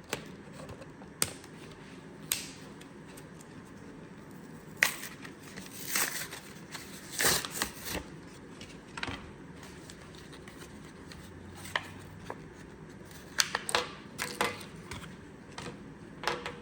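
Hands handling a JB Weld package and tubes: scattered sharp clicks and short plastic crinkles and rustles, busiest in the middle and again near the end.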